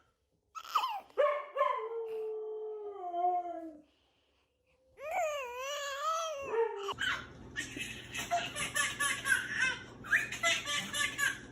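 A pet dog whining and howling in long, sliding, wavering calls, with a short pause in the middle. About seven seconds in, this gives way to a busier stretch of quick repeated bursts that sound like a baby laughing.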